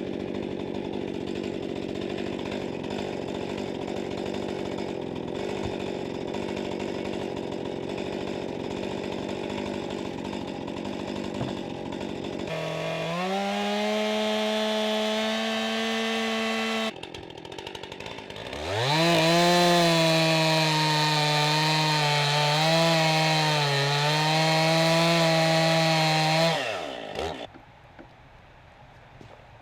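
A two-stroke chainsaw running steadily, then revved up to a higher steady pitch, dropping away, then revved up again from low and held at full throttle with a wavering pitch before it winds down and stops near the end.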